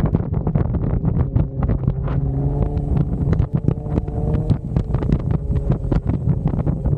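Jeep Wrangler engine running as it drives off-road, under heavy wind buffeting on the microphone. From about two seconds in, the engine note comes through more clearly and climbs a little for a couple of seconds before sinking back into the rumble.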